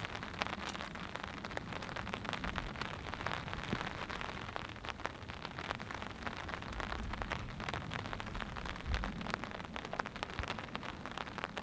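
Steady rain, with many separate drops ticking sharply on a surface close by.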